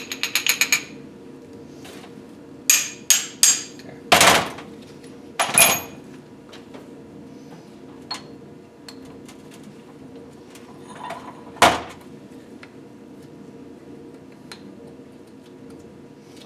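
Metal tools and engine parts being worked by hand: a quick run of light metallic clicks, then several sharp hammer-like taps and knocks on metal, the loudest about four seconds in and a last one near twelve seconds in.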